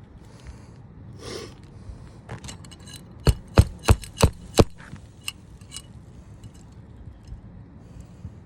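Roofing tools working asphalt shingles during a shingle repair: softer scrapes and taps, then a quick run of five sharp knocks about a third of a second apart near the middle.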